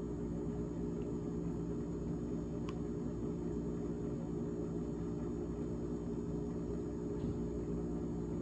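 GE refrigerator running: a steady, unchanging hum with several tones layered together, from its fan and motor.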